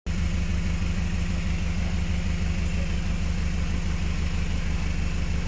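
Engine idling steadily, a low even pulsing with no change in speed.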